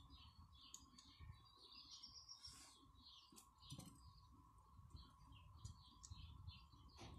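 Faint birds chirping, many short high notes following one another, over a steady faint tone.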